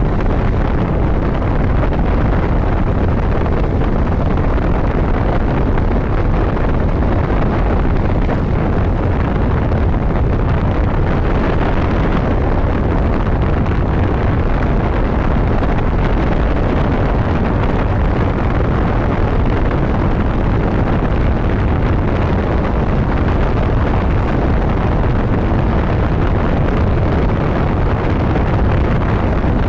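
Motorcycle ride at road speed: loud, steady wind rush buffeting the microphone over the motorcycle's engine and road noise.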